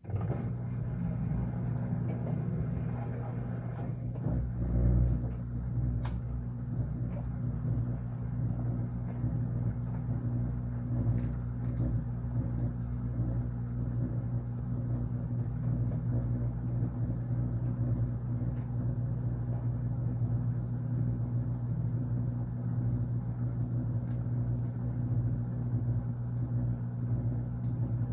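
Washing machine running: a steady low motor hum with a faint, even pulsing, starting abruptly at the beginning.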